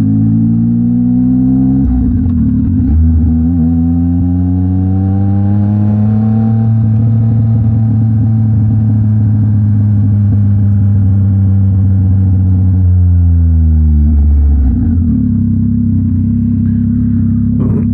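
Yamaha MT-09 SP's three-cylinder engine, breathing through a Mivv X-M50 aftermarket exhaust, pulling away and rising in pitch, with a short break about two seconds in. It holds a steady note, then drops in pitch as the bike slows near the end.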